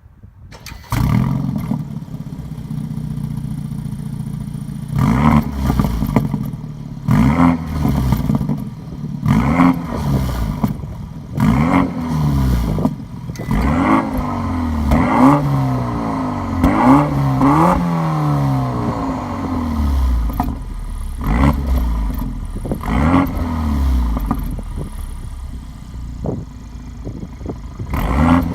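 BMW F30 328i's turbocharged four-cylinder engine breathing through an M Performance exhaust muffler, idling and revved in about a dozen short blips, each rising and falling quickly. The first revs go to around 3,000 rpm, the highest to around 5,000 rpm.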